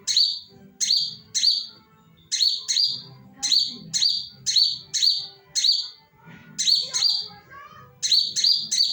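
A caged decoy songbird calls over and over: short, sharp, high chirps about twice a second, often in quick pairs.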